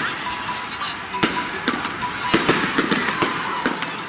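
Fireworks and firecrackers going off all around: an irregular string of sharp bangs and crackles, several a second. A thin, steady whistle runs through the first couple of seconds.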